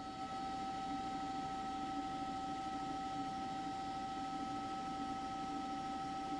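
Steady electrical hum: a high whine of a few fixed tones over an even hiss, unchanging throughout.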